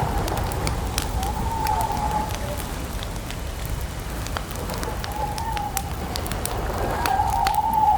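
Wood campfire crackling, scattered sharp pops and snaps over a steady low rumble. A bird calls three times with short rising-and-falling notes.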